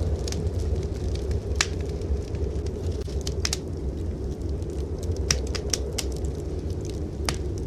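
Wood fire crackling in a fireplace, irregular sharp pops over a steady low rumble of blizzard wind.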